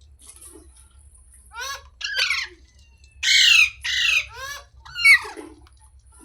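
Parrot squawking: a run of about six short, harsh calls starting about a second and a half in, loudest near the middle and just after.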